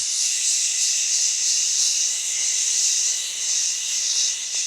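A person's long, steady "shhh" exhale, the qigong healing sound for the liver, used to release anger.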